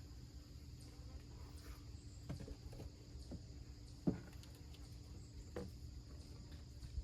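Hive tool prying open the wooden top of a beehive: a handful of short sharp clicks and knocks, the loudest about four seconds in, over a faint steady hum.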